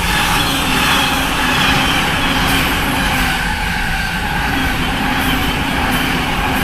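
E259 series Narita Express electric train passing at speed: a loud, steady rush of wheels on rail and running gear, with a few faint clicks.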